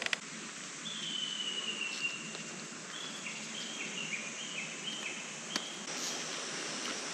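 A mountain stream runs steadily while a bird sings: one long whistled note that falls slightly, then a run of short notes alternating between a higher and a lower pitch. A few sharp clicks come through.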